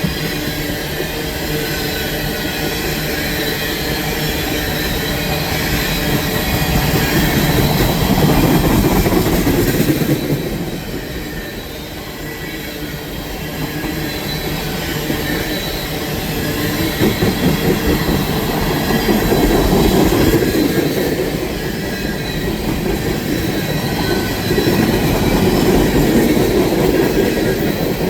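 A train's cars rolling past on the rails in a continuous rumble and rattle, swelling louder and easing off several times, with thin high wheel squeal over it.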